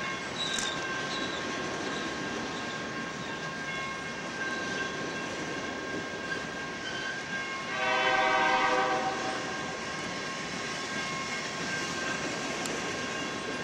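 Freight train coal cars rolling steadily past, their wheels on the rails giving a continuous rumble with a thin, steady high ringing tone. About eight seconds in, a diesel locomotive's multi-note air horn sounds once for about a second and a half.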